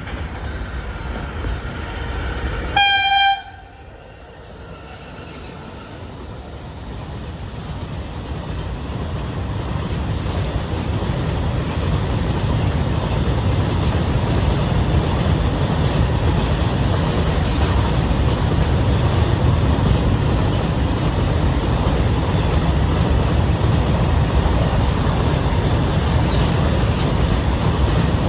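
Freight train running past with a steady rumble of wagons, and a short locomotive horn blast about three seconds in. The rumble grows louder over the next several seconds and then holds steady.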